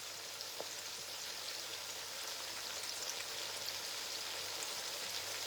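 Food frying in red palm oil in a pot: a steady, even sizzle with fine crackling.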